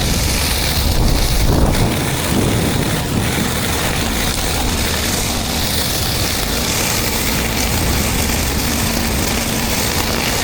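Pressure washer running steadily while spraying concrete: an engine-driven pump hum under a continuous hiss of high-pressure water.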